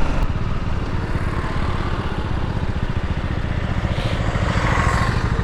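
BMW G 310 GS's single-cylinder engine running steadily at low revs, its firing pulses coming in a fast, even beat. A brief hiss rises about four seconds in.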